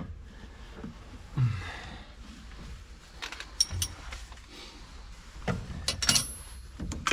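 Scattered clinks and knocks of metal parts and tools being handled during a tractor transmission teardown, with one piece giving a brief high metallic ring about six seconds in.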